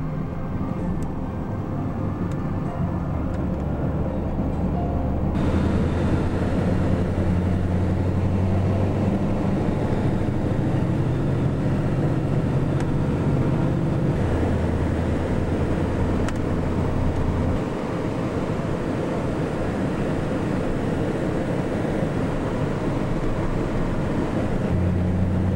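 Steady low rumble of a moving vehicle's engine and road noise. Its pitch changes in steps a few times, and it brightens abruptly about five seconds in.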